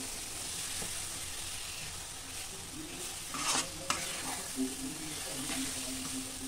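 Thick red-chilli pickle masala sizzling in oil in a pan while a metal spatula stirs and scrapes through it; the masala is being roasted until the oil separates. Two sharper clicks of the spatula against the pan come about three and a half and four seconds in.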